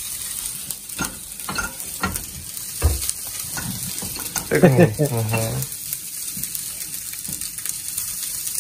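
Fried rice sizzling in a frying pan as a silicone spatula stirs it, with a few separate spatula strokes against the pan in the first few seconds. A short voiced sound from a person comes in about halfway through.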